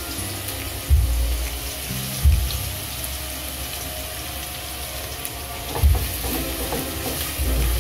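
Garlic and ginger sizzling in hot oil in a stainless steel pot, stirred with a spatula, with a few dull knocks as it moves against the pot. The garlic is browning. Soft background music runs underneath.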